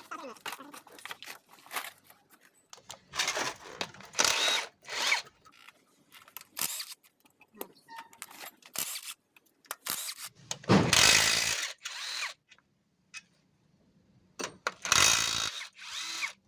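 A power tool running in several short bursts, the longest about a second and a half, about eleven seconds in, with clicks and knocks of tools and engine parts in between.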